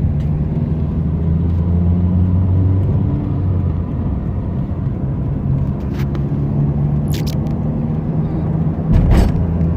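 Car engine and road noise droning steadily inside the cabin while driving. A few sharp clicks come midway, and a louder thump comes near the end.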